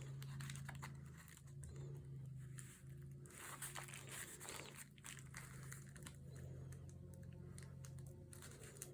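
Paper being pressed and smoothed by hand onto a freshly glued notebook cover, with faint, scattered crinkling and small clicks over a steady low hum.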